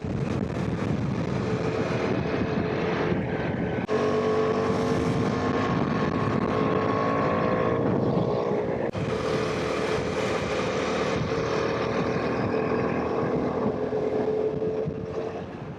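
KTM 390 Adventure's single-cylinder engine running steadily under way, with two brief dips in the engine note about four and nine seconds in.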